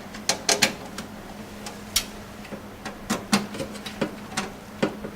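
Screwdriver tightening the screws that hold a motherboard in a PC case: irregular small clicks and ticks, a few a second.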